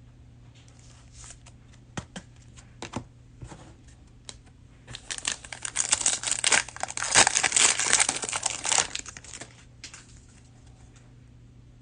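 Cellophane wrapper of a trading-card cello pack being crinkled and torn open. A few scattered crackles lead into a dense stretch of crinkling and tearing from about five to nine seconds in.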